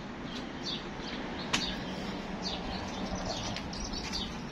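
Small birds chirping: short, high, falling chirps repeated over and over. One sharp click comes about a second and a half in.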